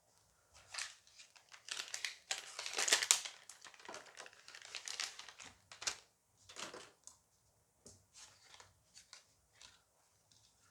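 A foil booster pack wrapper being torn open and crinkled by hand, loudest about two to three seconds in, then lighter rustling as the pack is handled.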